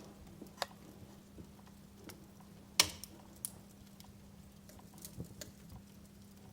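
Wood fire in a fireplace crackling: sparse, irregular pops and snaps, one loud pop a little under halfway through, over a faint steady low hum.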